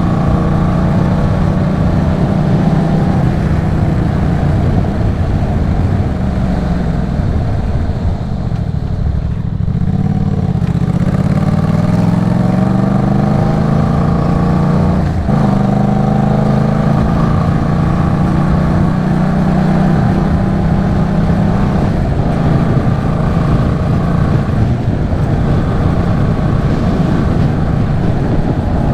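2023 Yamaha MT-07's 689 cc parallel-twin engine running through an aftermarket Arashi exhaust while riding. The revs drop for a couple of seconds about a third of the way in, then climb steadily through a gear. A sudden break about halfway through marks a gear change, and it then settles into steady cruising.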